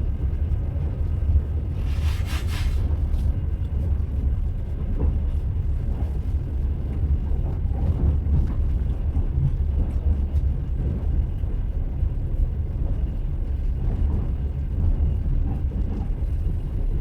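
A train running, heard as a steady low rumble with occasional faint knocks of the wheels on the rails, and a short hiss about two seconds in.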